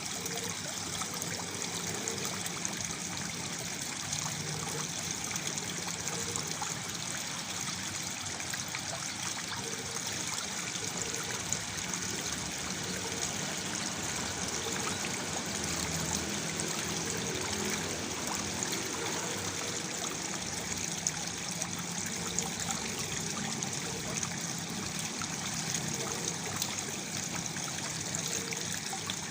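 Small waterfall pouring into a pool: a steady, unbroken splashing and trickling of falling water.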